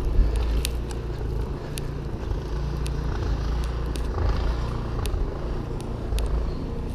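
Steady low outdoor rumble of wind and street traffic in a snowstorm, with scattered light clicks.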